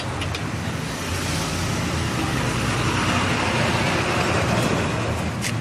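A motor vehicle running close by: a steady low engine hum with a rushing noise that swells to a peak about four seconds in and then eases.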